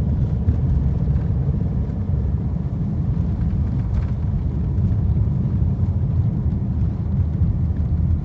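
A vehicle running steadily: a continuous low rumble without a break.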